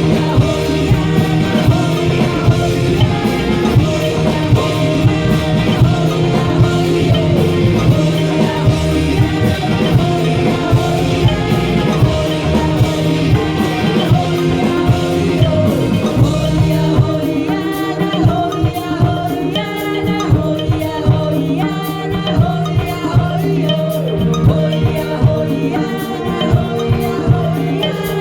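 Rock band music with singing and a drum kit. About seventeen seconds in the sound thins out, and regular drum hits stand out under the voice.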